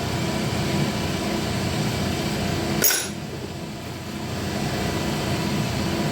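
Steady motor hum, as of a shop fan, with a single sharp metallic clink about three seconds in.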